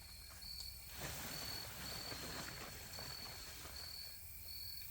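Insects chirping in a steady, high, pulsing rhythm. From about a second in, a louder rustling of tent fabric being handled.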